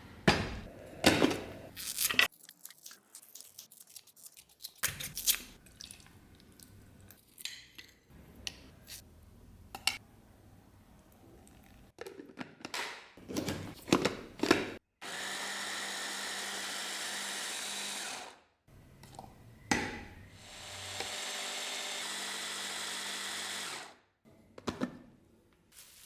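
Workshop handling: scattered knocks and clicks of metal parts being handled, then a small power tool running in two steady bursts of about three seconds each, the second winding up gradually, each cutting off.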